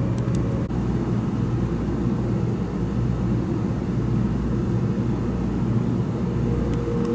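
Cabin noise of a 700 series Shinkansen running, a steady low rumble, as it pulls into a station platform; a steady whine comes in near the end.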